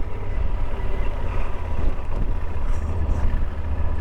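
Yamaha Super Ténéré motorcycle riding along at a steady pace: an even low engine rumble with road and wind noise.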